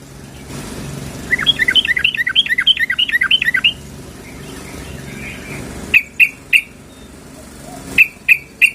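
Yellow-vented bulbul (trucukan) calling, described as a female calling for a male: a fast chattering run of short chirps, then two groups of three sharp short calls near the end.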